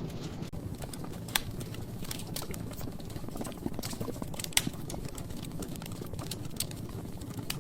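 Wood fire in a fireplace, its logs crackling steadily with many small irregular snaps over a low, steady rumble of flame. Two louder pops stand out, one a little over a second in and one around the middle.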